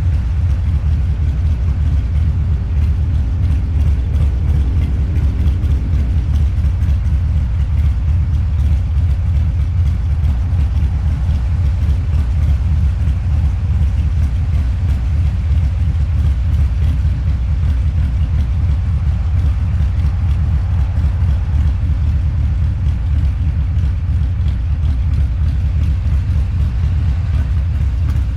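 Harley-Davidson Low Rider's 129 cubic-inch V-twin with a Two Brothers Racing exhaust, running steadily under way with an even, deep exhaust note.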